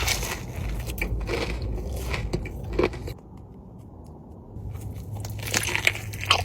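Crunchy food being bitten and chewed close to the microphone: a run of crackly crunches, a short lull about three seconds in, then more crunching.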